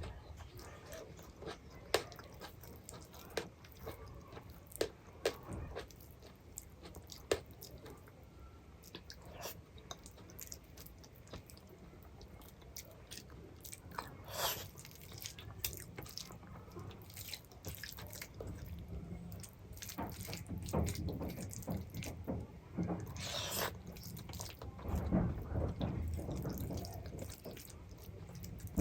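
Close-up eating sounds of a meal of rice and dal: chewing and biting, with frequent short wet clicks and smacks and a couple of longer wet squelches.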